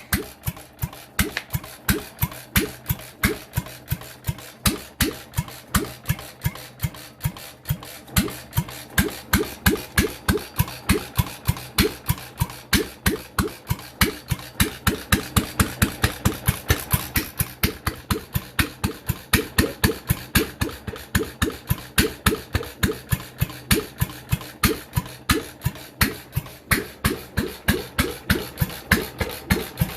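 Sundial 2 hp Type B single-cylinder stationary engine running on its first start, with sharp, evenly spaced beats about three to four a second.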